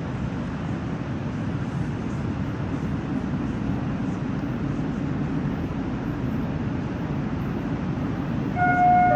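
Metro train running, a steady low rumble as heard from inside the car. Near the end, several high ringing tones start up over the rumble.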